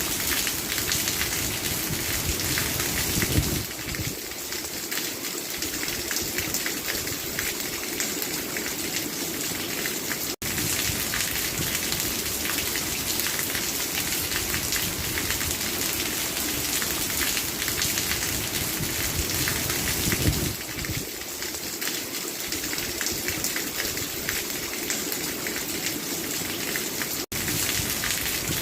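Steady heavy rain falling and splashing on surfaces, a dense even hiss. It breaks for a split second twice, once about ten seconds in and once near the end.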